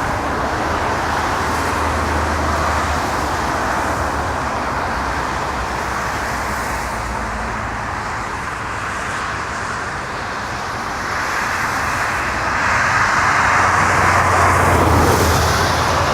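Jet airliner's engines running, a steady rushing noise that grows louder about twelve seconds in.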